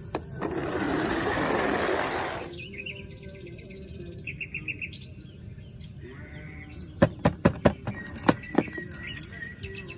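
Birds chirping, broken by a loud rushing noise lasting about two seconds near the start and a quick run of sharp clicks near the end.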